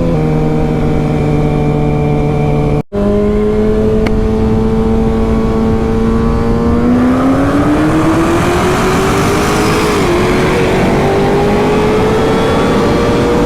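Sport motorcycle engine running at steady revs, then accelerating with rising pitch, a brief drop at a gear change, and a slower climb afterwards. Wind rush grows with the speed. The sound cuts out for an instant about three seconds in.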